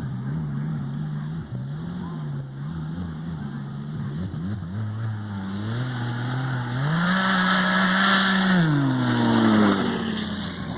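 Snowmobile's turbocharged three-cylinder Rotax 900 ACE Turbo four-stroke engine breathing through a GSE Performance Trail Tamer aftermarket muffler. It runs at a low, wavering throttle, then picks up about six seconds in, holds a higher steady note with a hiss over it, and drops back off near the end.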